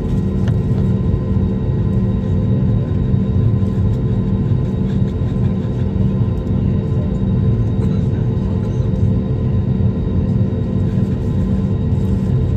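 Airliner cabin noise in flight: a steady, loud low rumble from the engines and airflow, with a constant hum in it.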